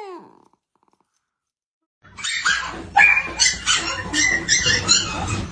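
A dog's pitched, wavering howl tails off, and after a short gap a dog barks repeatedly over a steady low background rumble.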